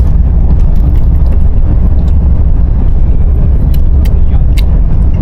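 Steady low rumble of a high-speed train running, heard from inside the carriage, with a few faint clicks towards the end.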